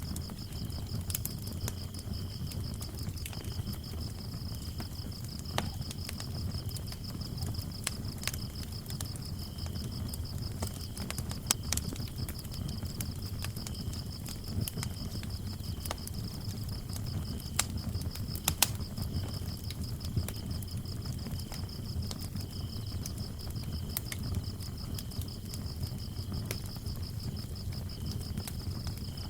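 Wood fire crackling with scattered sharp pops over a low rumble, with crickets chirping steadily throughout: one in a fast continuous high trill, another in broken shorter runs a little lower.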